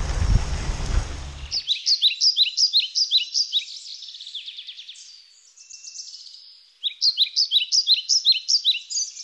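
Rumbling wind and riding noise on the microphone cuts off suddenly about a second and a half in, leaving rapid high-pitched bird chirps, several a second, in two runs with a softer stretch between.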